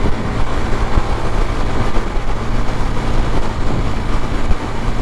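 Suzuki GZ250's single-cylinder engine running steadily at freeway speed, under a steady rush of wind noise on the microphone.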